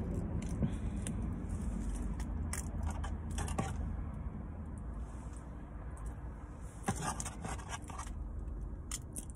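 Chewing and mouth sounds of someone eating fried fast food, with finger-licking and a few crackles and rustles from the paper food box, over a low steady rumble inside a car.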